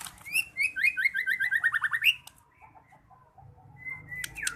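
White-rumped shama (murai batu) singing: a rapid run of loud, clear whistled notes for about two seconds, then softer notes, and a new loud phrase starting near the end.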